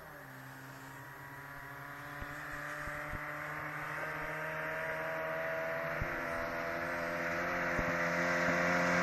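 Lada 2107's four-cylinder engine running at steady revs, growing steadily louder as the car approaches, with a few faint knocks along the way.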